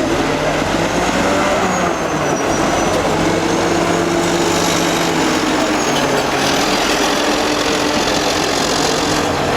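Old Caterpillar D8 bulldozer's diesel engine running steadily while working, its pitch stepping slightly up and down.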